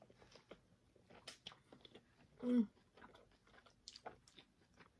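Mouth sounds of chewing chicken fajita tacos in soft flour tortillas: many small wet smacks and clicks. About two and a half seconds in there is a brief hummed "mm".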